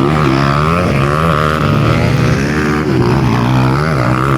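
Several dirt-bike engines revving, their pitch climbing and falling again and again as the bikes accelerate and shift.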